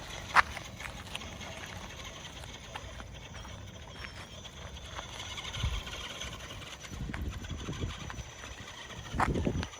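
Scattered knocks and thumps with a faint steady whine behind them, from an RC 6x6 monster truck being driven while a dog goes after its tires. There is a sharp click about half a second in and a louder thump near the end.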